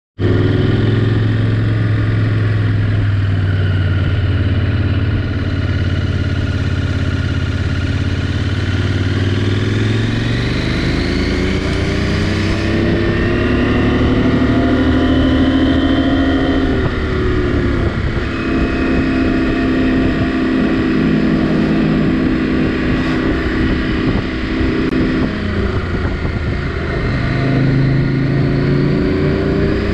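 KTM 790 Adventure R's parallel-twin engine running under way. It holds steady at low revs at first, then climbs in pitch about a third of the way in and rises and falls with throttle and gear changes for the rest.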